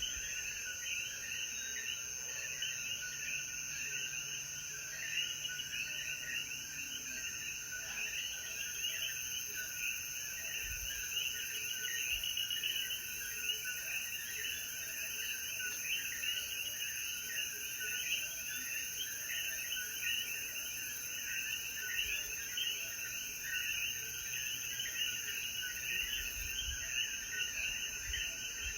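Chorus of many common coquí frogs giving their two-note rising "co-quí" calls, overlapping without pause, over a steady high insect drone.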